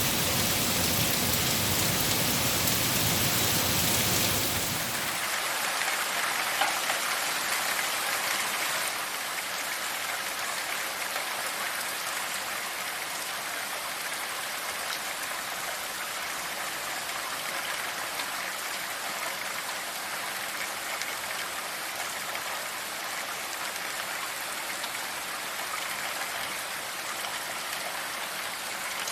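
Rain falling steadily as an even hiss. It is heavier and fuller for about the first five seconds, then settles to a lighter, thinner patter.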